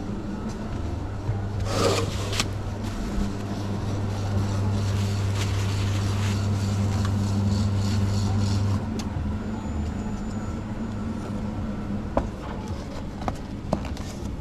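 Espresso machine pump humming steadily while it runs, then cutting off about nine seconds in. A brief noisy burst comes about two seconds in, and a few sharp clicks and knocks near the end.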